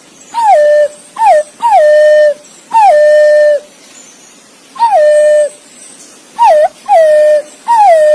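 Green pigeon (punai) calling: a series of about eight clear whistled notes, each sliding down and then held at a steady pitch, some short and some long, with irregular gaps between them.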